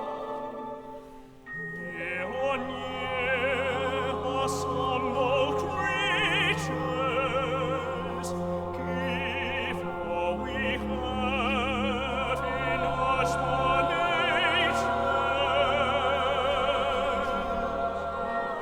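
Operatic singing with wide vibrato over long-held low chords from a small instrumental ensemble. The music thins briefly about a second in, then swells back and carries on in sustained phrases.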